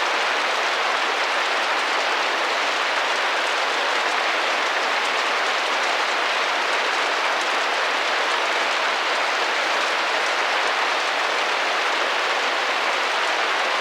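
Steady rain pattering on a window pane, an even, unbroken hiss of drops with no single drop standing out.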